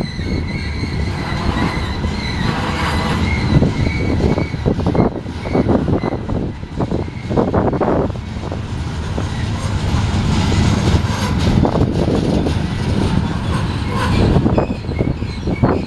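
Union Pacific grain train's cars rolling past, wheels rumbling and clattering steadily over the rails, with a thin high wheel squeal over the first few seconds.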